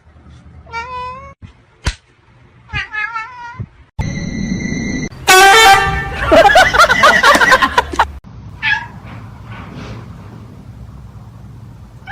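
Domestic cat yowling: two drawn-out meows with a wavering pitch, then after a cut a much louder, longer stretch of screeching cries.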